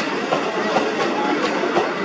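Steam-hauled passenger train rolling along the track, a steady rumble with irregular clicks of the wheels.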